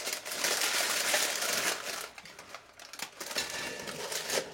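Baking paper crinkling and rustling as bread dough is handled on it and set into a cast-iron Dutch oven, loudest in the first two seconds, with a few small clicks after.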